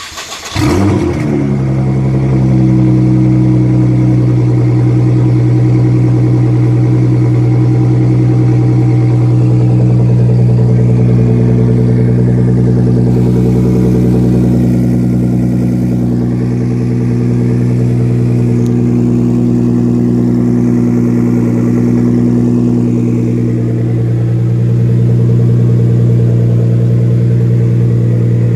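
Nissan GT-R twin-turbo engine catching on a cold start and settling within a second or two into a loud, steady fast idle through 3.5-inch straight pipes with no mufflers. The idle eases down a little about 24 seconds in.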